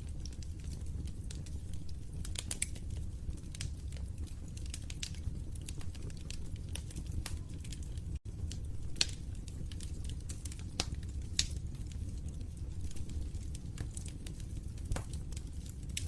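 Fireplace fire crackling: irregular sharp pops and snaps over a steady low rumble of flames, with a split-second gap about eight seconds in.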